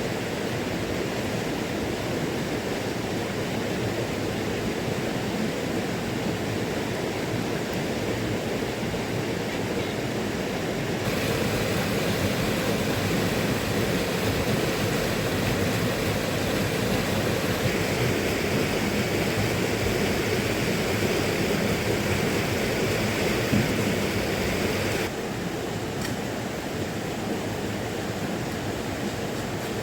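Steady rushing noise of water, even and unbroken, growing a little louder and brighter about a third of the way in and dropping back near the end.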